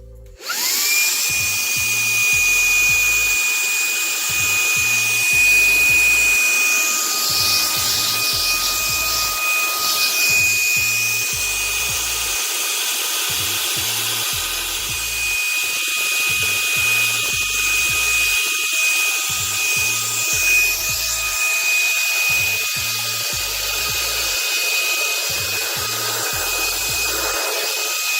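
Shark ION handheld vacuum switching on, its motor spinning up within the first second to a steady high whine over a rush of air, as it sucks up pencil shavings.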